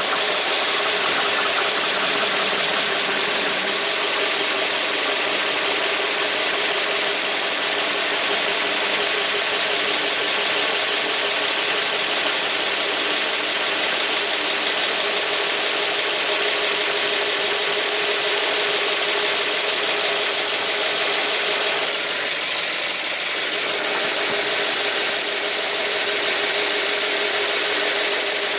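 Ford 351 Windsor V8 running at a steady idle just after being started, its rocker arms freshly retorqued to cure a heavy valve-train tick.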